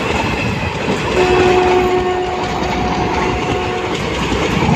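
A train passing at close range, its cars rushing by with a loud, steady rattle and clatter of wheels on rails. From about a second in, a steady two-tone train horn sounds for about three seconds over the passing cars.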